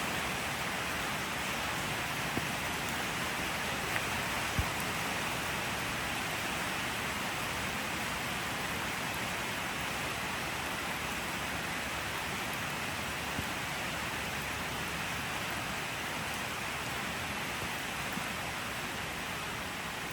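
Steady, even rain hiss, with a few single louder drop taps standing out: three in the first five seconds and one more later.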